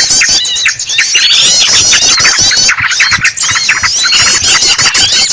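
Bird-lure track of yellow-vented bulbuls chattering excitedly, mixed with the squealing distress cries of a trapped bird. It is a loud, dense run of rapid, overlapping high chirps and squeals with no pause.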